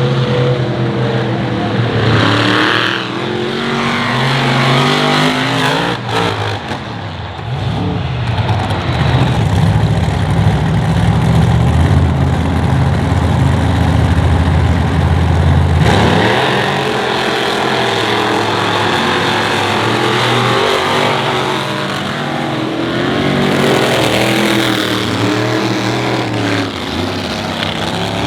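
Monster truck engines revving hard, their pitch climbing and dropping as the trucks accelerate and let off. In the middle there is a long stretch of steady high-revving, which cuts off suddenly.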